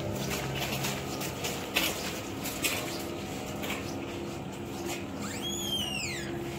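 A single whistled bird call about five seconds in, lasting about a second, that rises and then falls in pitch. Under it is a steady low hum with scattered light knocks and steps.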